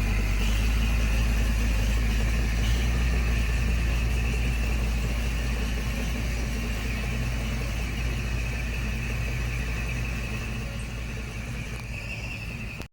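Heavy diesel engine of earth-moving machinery running steadily, with a deep rumble, growing gradually a little quieter and cutting off suddenly at the end.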